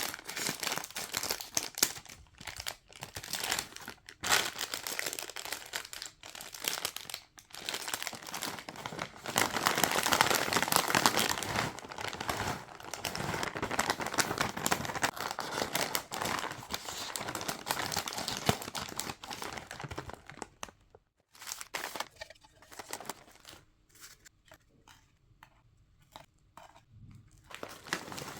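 Plastic snack wrappers crinkling and tearing as they are handled and opened, loudest about a third of the way in. Near the end it thins to scattered light clicks and taps.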